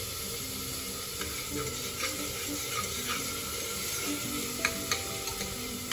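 Chopped tomatoes sizzling in hot oil with fried onions in an open pressure cooker, stirred with a metal spoon, with a couple of sharp clinks of the spoon against the pot near the end.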